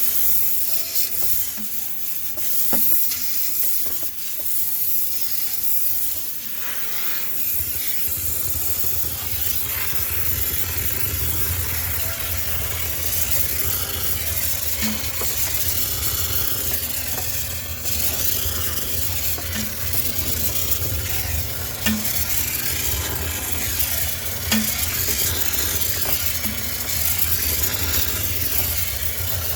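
High-pressure cleaning spray hissing and crackling against surfaces. A low machine hum joins about a quarter of the way in.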